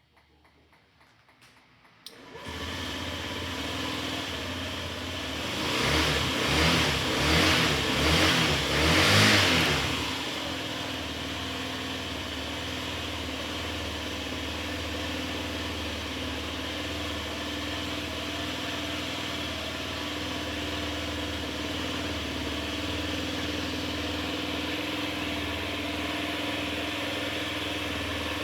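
A 2004 Honda Zoomer's 49 cc four-stroke single-cylinder engine starts about two seconds in and settles into an idle. It is then blipped four times in quick succession and returns to a steady idle.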